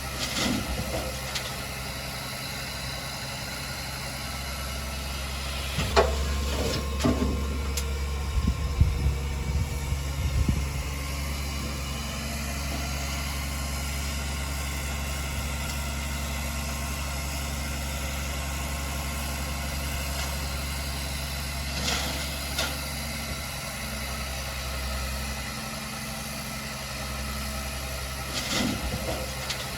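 Heavy diesel engine of earthmoving machinery running steadily, with sharp clanks and knocks several times: a cluster about six to eleven seconds in, and more near the end.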